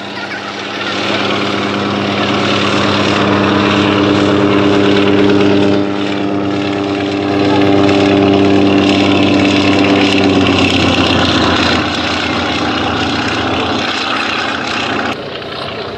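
Antonov An-2 biplane's nine-cylinder radial engine and propeller droning loudly as it flies low overhead, its pitch dropping about ten seconds in as it passes. The sound cuts off suddenly near the end.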